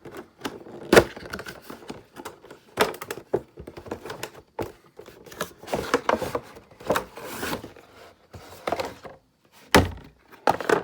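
A toy's cardboard packaging and its contents being handled: a string of knocks, taps and rustling, with a loud thump about a second in and another near the end.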